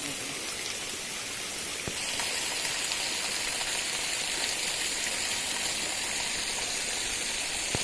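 Water of a small waterfall splashing and rushing in a steady hiss, a thin dry-season flow; it gets louder about two seconds in. A sharp click near the end.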